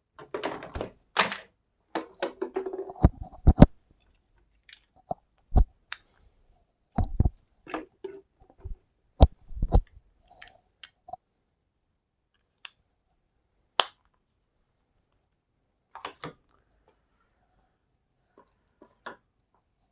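Irregular scraping, rubbing and tapping of hand cleaning on an LED TV panel's COF strips and contact points, busiest in the first half and sparser after about ten seconds.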